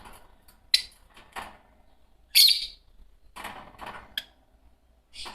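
Fischer's lovebirds chirping: a scattered series of short, sharp high-pitched calls with pauses between them, the loudest near the middle.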